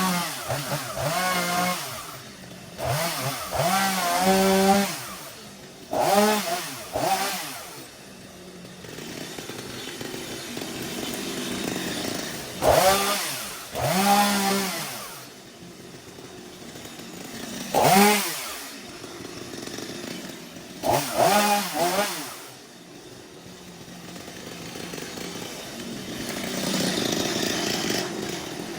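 Petrol chainsaw revved in about ten short bursts, the pitch climbing and then sliding back down to a lower idle between each one.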